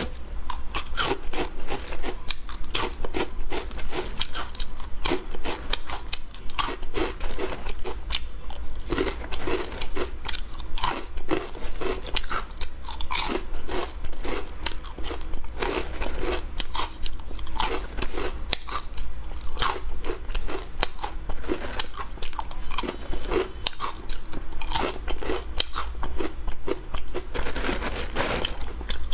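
Crispy fried shrimp-roll snacks being bitten and chewed close to the microphone: continuous loud crunching, with one crackling bite after another.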